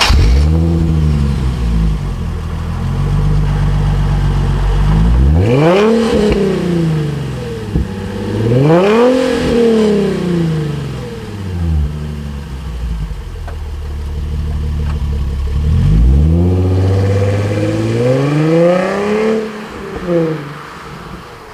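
Nissan 350Z's 3.5-litre V6 breathing through a Bassani aftermarket exhaust, idling and revved from idle. There are two single rev blips, then a run of quick blips near the end, and each time it falls back to idle.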